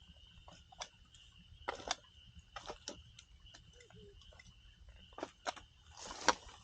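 Wood campfire crackling: irregular sharp pops and snaps, a few louder ones, the loudest near the end. A faint steady high-pitched tone continues underneath.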